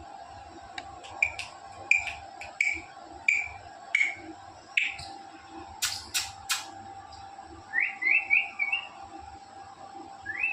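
Amazon parrot giving a string of short chirps, roughly one every half second to second, then a few sharp clicks, and later a quick run of rising whistle notes, over a faint steady hum.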